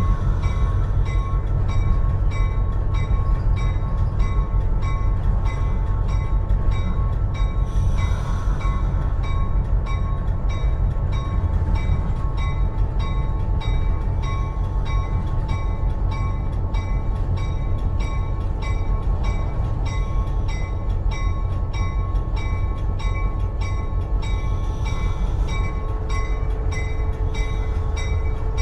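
Cab of an EMD GP38-2 diesel locomotive, its 16-cylinder two-stroke engine running with a steady low drone as the train rolls along, over a regular light ticking about one and a half times a second.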